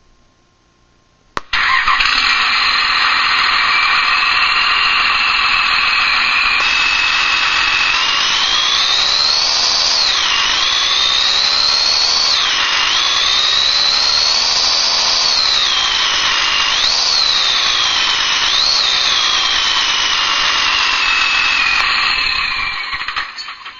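Recorded diesel pickup engine played by an RC car sound module through a speaker, coming on about a second and a half in. It revs up and drops back sharply about four times as the throttle is worked to simulate upshifts through the gears, then winds down near the end.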